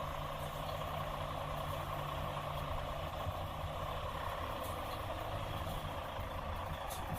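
Truck engines running steadily under a steady hiss. A low hum fades out a little under three seconds in.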